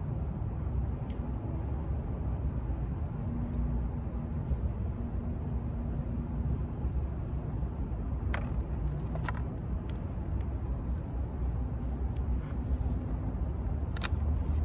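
Steady low rumble of an idling vehicle engine, with a few short clicks about eight, nine and fourteen seconds in.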